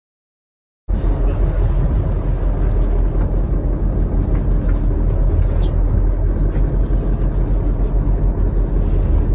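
Silence, then a little under a second in a steady low rumble starts abruptly: the charter fishing boat's engine running.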